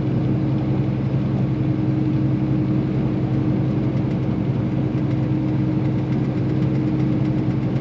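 Semi truck's diesel engine droning steadily under way, with road noise, heard inside the cab.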